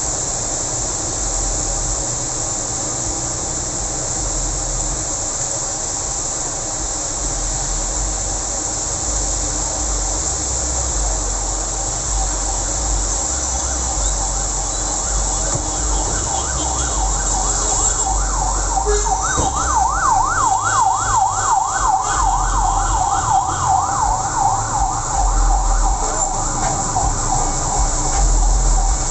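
Steady hiss of rain and traffic on a wet road; about sixteen seconds in, an emergency vehicle's siren comes in with a fast, yelping up-and-down sweep, growing louder from about nineteen seconds.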